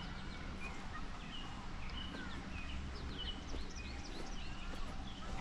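Several songbirds chirping and whistling, many short overlapping calls, over a low rumble.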